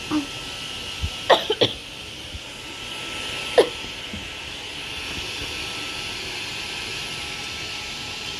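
Vacuum cleaner running steadily with a hissing whine. A few short sharp sounds cluster just over a second in, and one more comes about three and a half seconds in.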